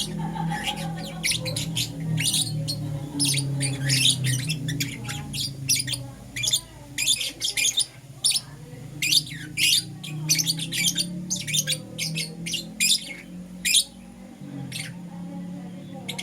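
Lovebirds chirping: a rapid, shrill stream of short squawky chirps, many per second, with brief pauses.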